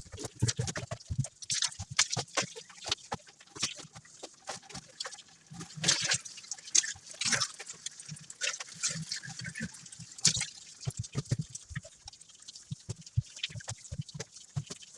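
Irregular wet knocks, squeaks and drips as a refrigerator is scrubbed and washed down with foamy water.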